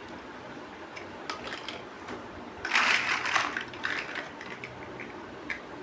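Plastic building blocks being handled: scattered small clicks, with a louder rattling clatter of pieces about three seconds in.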